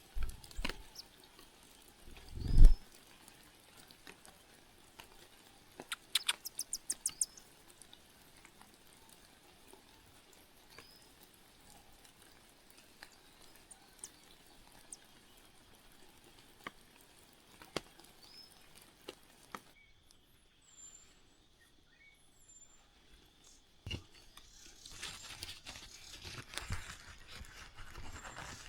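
Scattered faint short bird chirps, with a low thump early on, a quick run of about eight sharp chirps or clicks a few seconds later, and rustling near the end.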